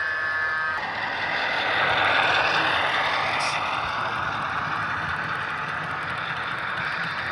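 HO scale model diesel locomotive running, with a short horn blast during the first second. A steady diesel-engine-like running sound follows, rising and falling slightly in pitch.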